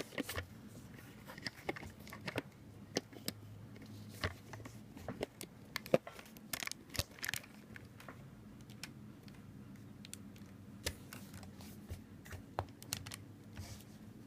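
Scattered light clicks, taps and faint rustles of small model parts being handled as the cab of a homemade model ladder truck is fitted back on.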